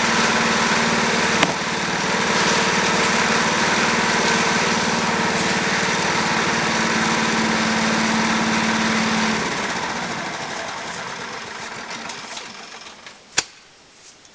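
Woodmizer LT15 sawmill's engine running steadily, then winding down and dying away from about nine seconds in. A single sharp knock near the end.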